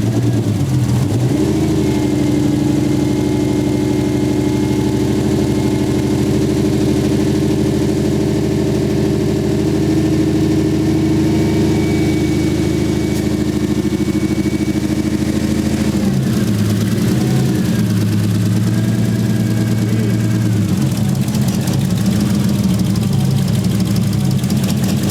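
Toyota 1JZ VVTi 2.5 L inline-six running with a misfire. It is raised to a steady higher speed about a second in and held there, then drops back to idle about sixteen seconds in. The misfire is traced to a cylinder-4 injector plug that was not seating right.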